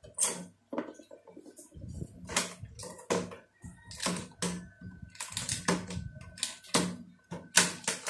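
Small hard plastic toy parts and screws clicking and tapping as they are handled and set down, in an irregular run of sharp clicks, about two a second.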